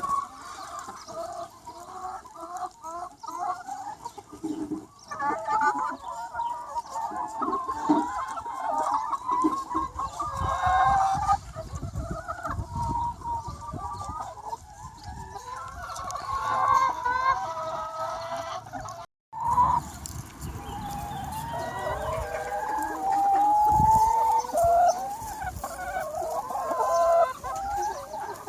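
A large free-range flock of chickens clucking and calling over one another without a break, with a rooster crowing among them. The sound drops out completely for a split second about two-thirds of the way through.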